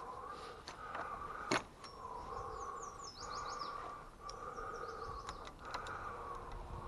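A small bird chirps a quick run of high, falling notes about two seconds in. Underneath is a steady, slightly wavering hum from an unknown source, with a few sharp clicks scattered through.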